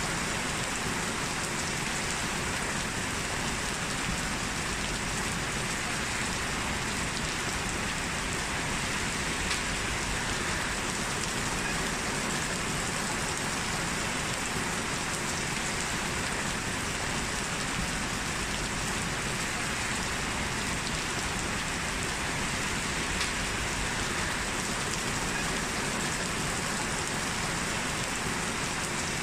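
Steady rain falling, an even hiss with no change in strength, and a faint drop tick now and then.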